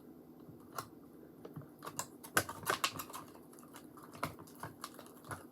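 Irregular light clicks and taps of a mixing stick stirring slime as it forms in a cup of glue solution and activator.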